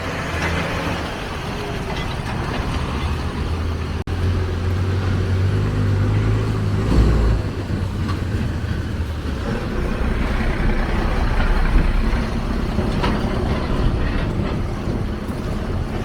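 Engine of a heavy road vehicle running close by with a steady low rumble, heaviest in the middle, over an even hiss of rain and wet-road noise.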